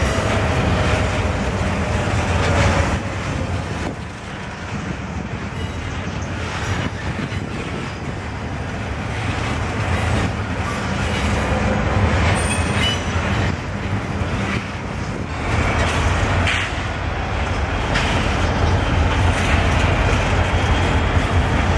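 Double-stack intermodal freight train rolling past: a steady low rumble of loaded container well cars, with wheels clicking over rail joints now and then and a faint thin wheel squeal briefly near the middle.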